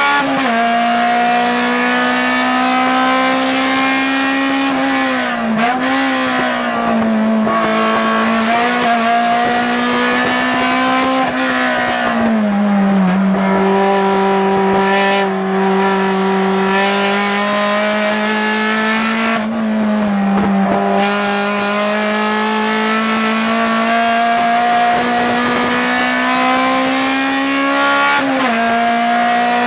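Acura RSX Type S race car's 2.0-litre four-cylinder engine running hard near the top of its rev range, heard inside the cabin. Its pitch climbs slowly and dips briefly several times before rising again.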